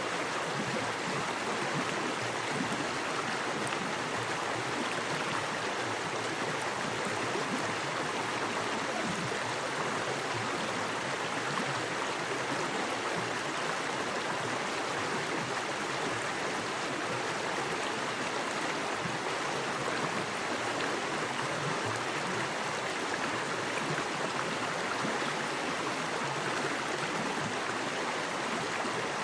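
Small woodland creek running fast over rocks: a steady, even rush of water with no pauses or changes.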